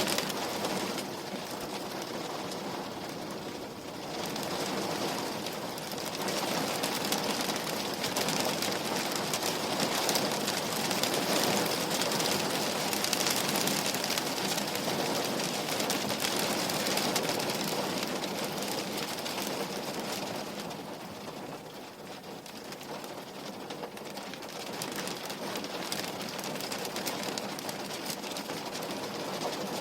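Rain falling on a window pane, a steady patter of many small drops that swells and eases, softening briefly twice.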